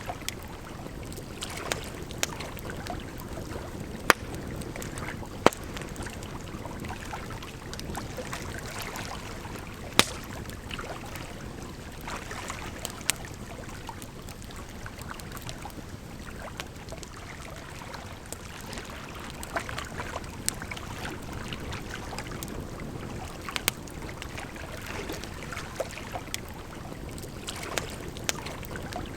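Wood fire crackling, with scattered sharp pops, a few much louder than the rest, over a steady rush of running water.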